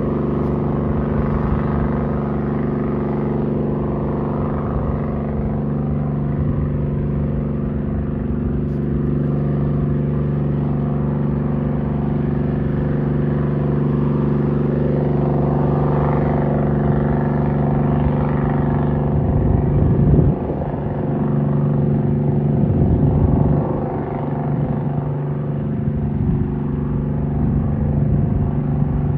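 An engine running steadily, a low, even drone with a rumble underneath that swells briefly twice about two-thirds of the way through.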